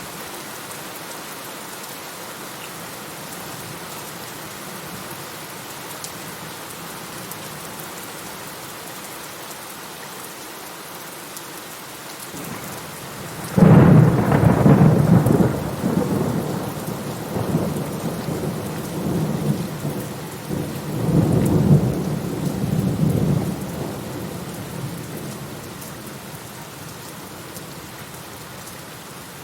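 Steady rain falling, with a thunderclap that breaks suddenly about halfway through and rolls on in rumbling waves for about ten seconds before fading back into the rain.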